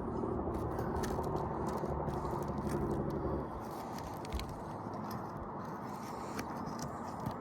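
Scraping and small clicks as an asphalt roof shingle is worked loose with a tool, over a steady low engine-like hum that drops away about three and a half seconds in.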